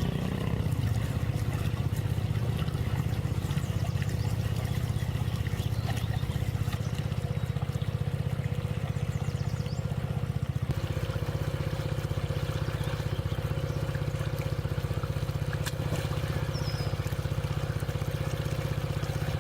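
Water pouring and trickling over a steady low hum, with a slight change in the sound about ten seconds in.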